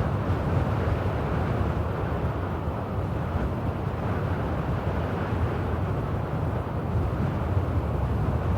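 Steady wind blowing, a low, even rush with gentle swells in strength.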